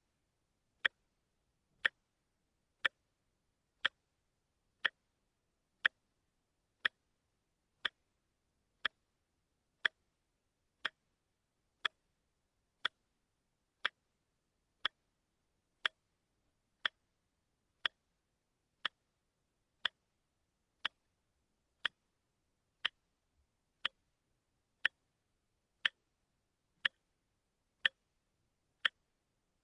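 Watch ticking steadily about once a second, a single short sharp tick each time with silence between, the one-step-a-second beat of a quartz movement's seconds hand.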